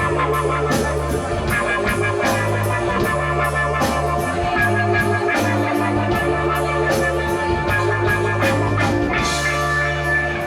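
Live rock band playing an instrumental passage, with a repeating bass line and a steady drum beat under keyboard and guitar.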